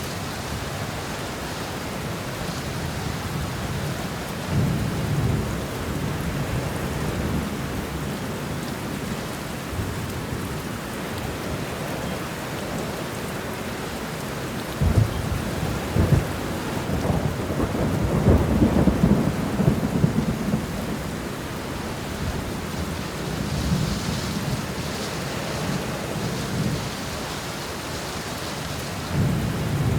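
Steady heavy rain with thunder rolling through it. Two sharp claps come about halfway, followed by the longest, loudest rumble, with lighter rumbles early on and near the end.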